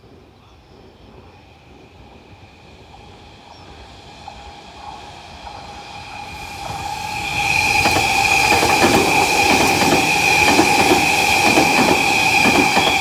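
Tobu N100 series Spacia X electric express train approaching and passing close by. Its sound grows steadily and becomes loud about seven seconds in, with a steady high whine and wheels clattering over the rail joints as the cars go past.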